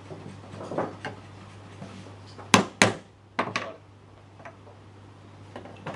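Sharp knocks of hand woodworking tools on wood: two loud strikes about two and a half seconds in, then a quick run of three lighter ones, with a few faint taps, over a low steady hum.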